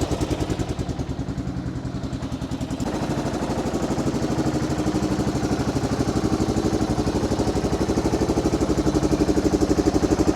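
1985 Yamaha XT600's single-cylinder four-stroke engine idling with an even, pulsing beat, just after the choke has been turned off. The idle note changes about three seconds in and then slowly grows louder.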